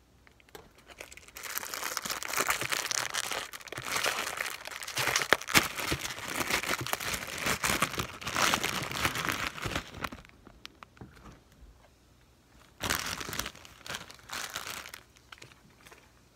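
Plastic wrapper of a Top Ramen instant noodle packet crinkling and tearing as it is handled and opened close to the microphone: a long stretch of crinkling, then a second, shorter burst near the end.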